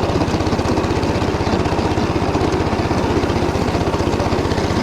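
Engine running steadily with an even, fast pulse, driving a Motor Sich rotary tiller through stubble.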